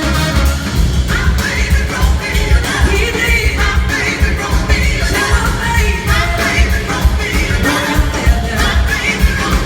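A blues-rock band playing live, with a steady beat from drums and bass and a lead line that bends in pitch above the band.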